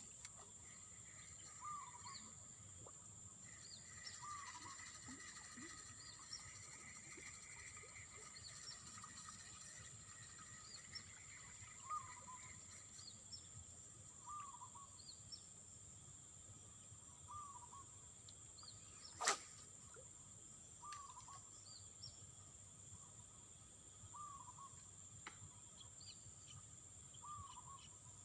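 Faint outdoor ambience: a steady high-pitched insect drone, with a bird's short call repeating every few seconds and scattered small chirps. A single sharp click comes about two-thirds of the way through.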